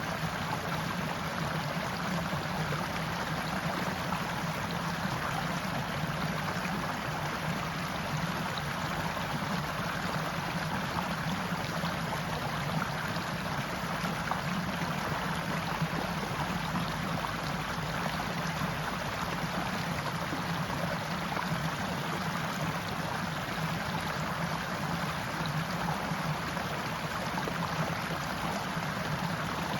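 Forest stream flowing: a steady rush of running water with no breaks or separate sounds.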